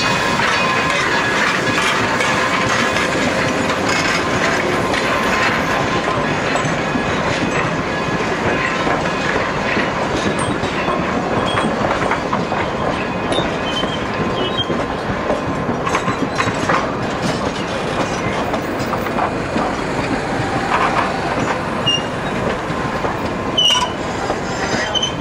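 Durango & Silverton narrow-gauge passenger train rolling slowly by at close range: a steady rumble with wheels clicking over rail joints and switches, and a few brief wheel squeals near the end.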